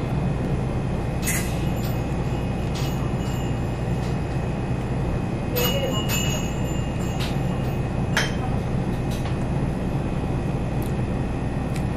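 Soft bread being bitten and chewed close to the microphone, with a few short clicks and rustles, over a steady low hum.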